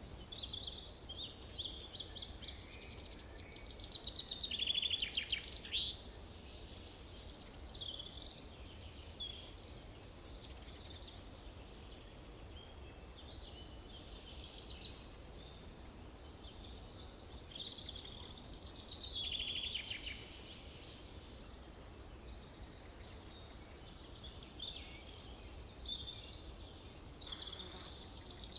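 Several birds singing and calling over a steady low background of forest ambience, with the loudest bursts of rapid high trills about 5 seconds in, around 19 seconds and near the end.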